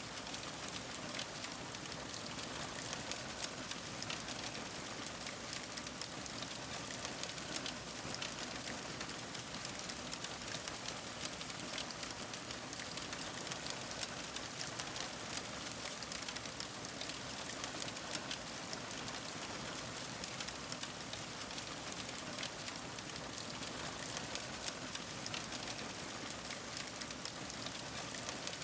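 Fire crackling: a steady hiss with many small pops and snaps scattered throughout.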